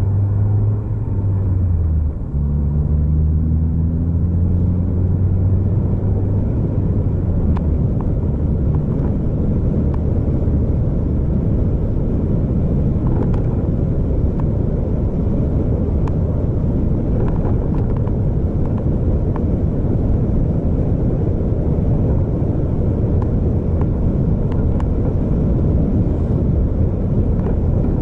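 A vehicle's engine pulls along the road with a low rumble. It dips briefly about two seconds in, as at a gear change, then climbs slowly in pitch as it accelerates. After that it settles into a steady low road rumble.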